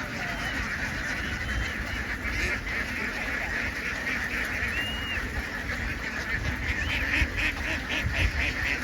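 A large flock of domestic ducks quacking all at once, many overlapping calls blending into a steady din.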